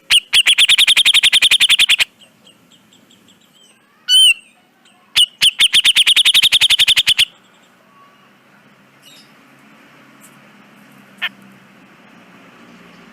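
Cucak jenggot bulbul giving two loud, rapid chattering trills, each a run of about ten harsh notes a second lasting nearly two seconds, with a single call between them. After about seven seconds the song stops, leaving faint hiss and one click near the end.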